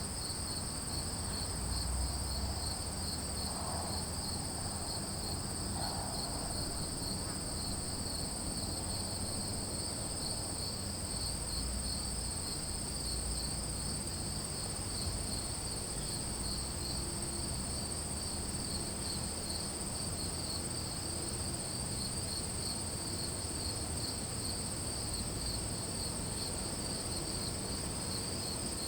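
Chorus of crickets: one steady high trill with no breaks, and a lower, rapidly pulsing chirp under it, both unbroken, over a faint low rumble.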